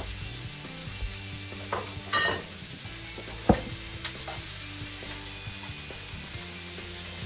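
Sliced bell pepper and onion sizzling in a hot oiled pan as they are stirred with a spatula, with a few clinks and one sharp knock about halfway through.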